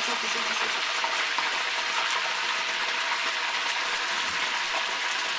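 Fatty pork pieces frying in oil with doubanjiang and oyster sauce in a wok, a steady sizzle.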